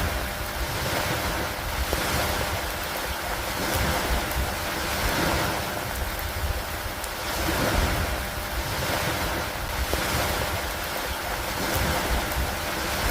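Storm ambience of rain and lake water washing against a wooden dock. It is an even rushing hiss over a low rumble, swelling and easing every two or three seconds like waves or gusts.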